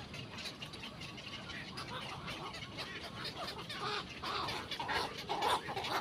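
Birds calling: many short, overlapping calls repeated throughout, growing louder about five seconds in.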